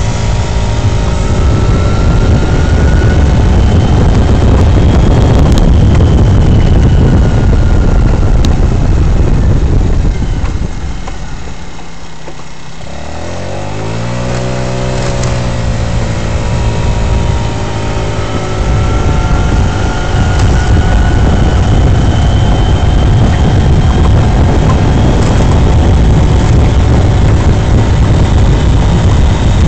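GY6 scooter's four-stroke single-cylinder engine running under way, with a rushing rumble beneath the engine note. About eleven seconds in the engine drops back and goes quieter, then revs up again in a rising whine and carries on steadily.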